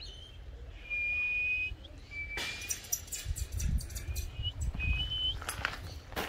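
A bird giving high, steady whistled notes, each less than a second long, about four times. A spell of rustling noise comes about two and a half seconds in, and a few knocks come near the end.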